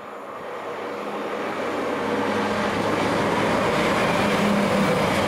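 Diesel multiple unit passing close beneath: engine hum and wheel-on-rail rumble grow louder over the first two seconds, then hold steady as it goes by.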